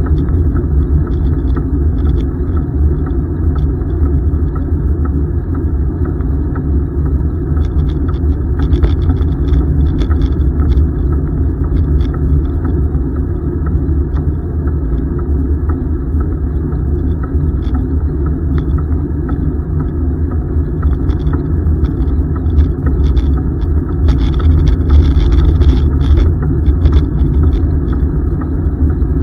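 Steady low rumble of wind buffeting and tyre noise on a moving bicycle's camera microphone.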